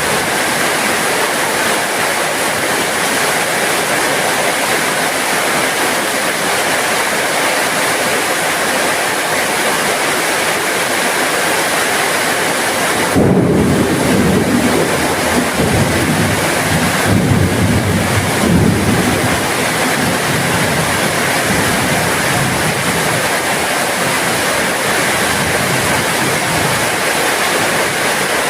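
Steady heavy rain falling. About halfway through, a low rumble of thunder swells up under the rain for several seconds, then dies away.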